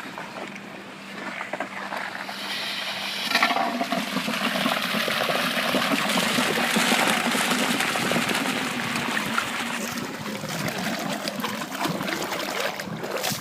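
Water gushing out of a diesel-engine water pump, swelling about three seconds in and easing off near the end.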